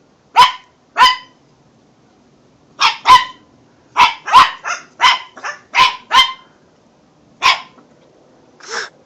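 Chihuahua barking in short, sharp, high yaps: a couple of pairs, then a quick run of about seven, then two more spaced out.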